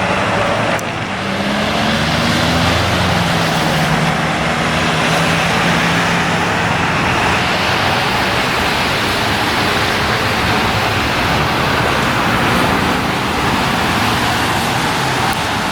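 Steady road traffic noise, with a passing vehicle's engine hum rising in pitch during the first few seconds.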